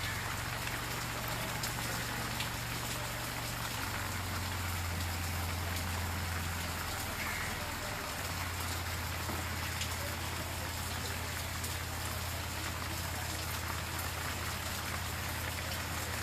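Heavy rain falling steadily, a constant hiss of drops on surfaces, over a steady low hum.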